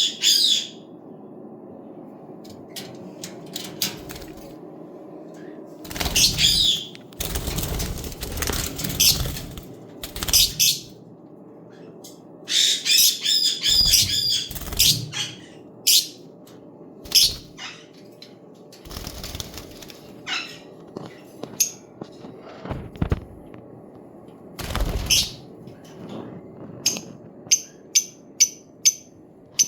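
Pet parrots giving sharp, high-pitched squawks and chirps in short scattered bursts, with a quick run of about five short chirps near the end, over a steady low hum.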